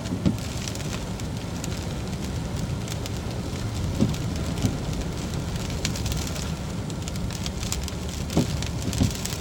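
A car driving slowly, with steady road and tyre noise and a scattering of fine crackles. A few short knocks cut through about a second apart near the start, the middle and the end.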